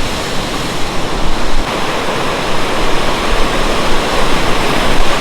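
Naga Falls, a large mountain waterfall, pouring from high up into a fast torrent: a loud, steady rush of falling water.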